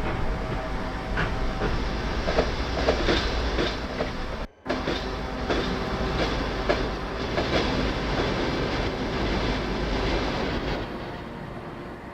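Passenger train running along the track, its wheels clicking rhythmically over the rail joints over a steady rumble. The sound cuts out for a moment about a third of the way through, and it gets quieter near the end.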